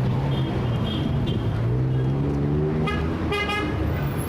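Heavy city street traffic: a steady rumble of engines, with one vehicle's engine rising in pitch as it accelerates about halfway through. Car horns honk twice in quick succession near the end.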